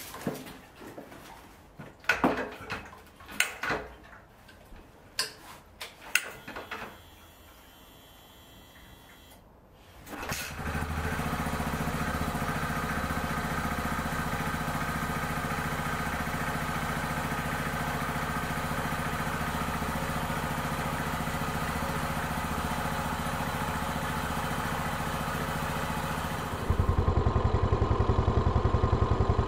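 Scattered clicks and knocks, then about ten seconds in a Yamaha SR400's air-cooled single-cylinder engine starts and settles into a steady idle. Near the end the engine sound suddenly gets louder and duller.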